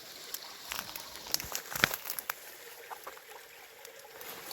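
A cluster of sharp clicks and knocks from hands handling a hooked brook trout and tackle, the loudest a little under two seconds in, over the faint steady trickle of a small stream.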